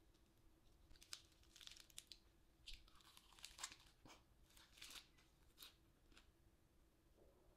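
A lettuce wrap of sliced meat and kimchi being folded and bitten into, then chewed: faint crunching and crinkling of the crisp leaves in short scattered bursts, from about a second in until around six seconds.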